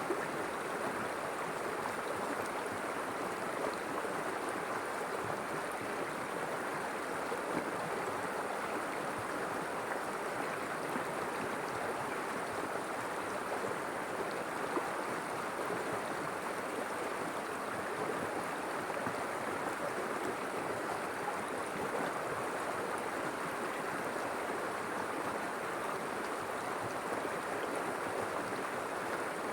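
River water flowing steadily over rocks, an even rushing with fine gurgling detail and no change in level.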